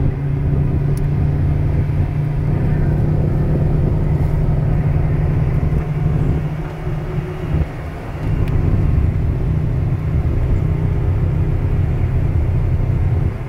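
Holden VE Commodore SS wagon's V8 engine running steadily, a loud low drone. It eases off for about two seconds around the middle, then picks up again.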